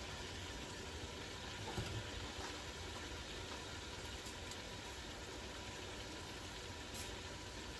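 Pot boiling on the stove: a steady low rumble, with a faint knock about two seconds in.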